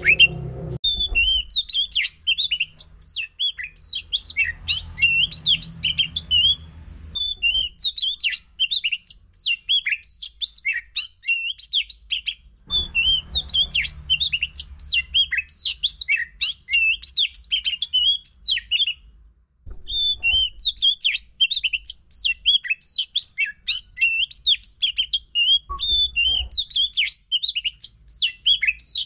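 Oriental magpie-robin (kacer) singing a fast, non-stop 'gacor' song of varied high chirps and whistles, the kind used as a lure recording to set a silent kacer singing. The song breaks briefly about two-thirds of the way through.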